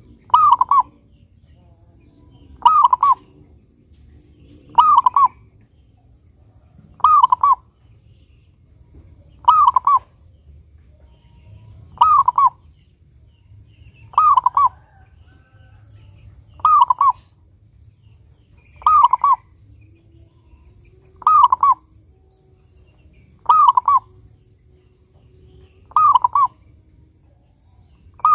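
Zebra dove (perkutut) singing: a short burst of rapid cooing notes, repeated evenly about every two and a half seconds, around a dozen times.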